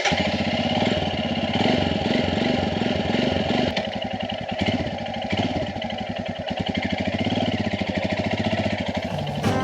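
Motorcycle engine running at low revs, a steady rapid firing beat with small rises and falls in pitch. Acoustic guitar music comes in near the end.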